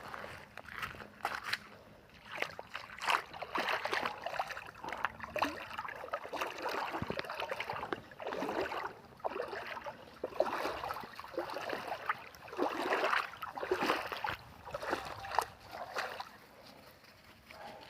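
River water splashing and sloshing in irregular bursts.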